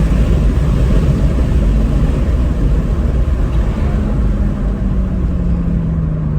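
BMW 335i's twin-turbo inline-six running hard under a heavy, steady rumble of road and wind noise inside the cabin. A few seconds in, a steady engine note appears and slides down in pitch as the car comes off the power.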